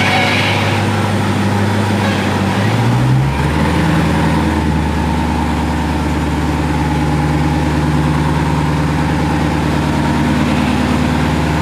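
Car engine idling steadily; its note shifts about three seconds in, then holds even.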